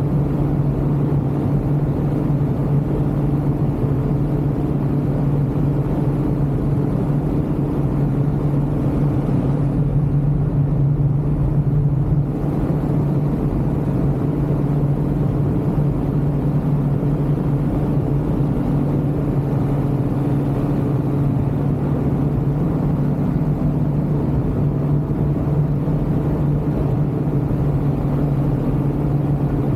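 Ultralight aircraft engine droning at a steady speed, with a constant low pitch and no change in throttle.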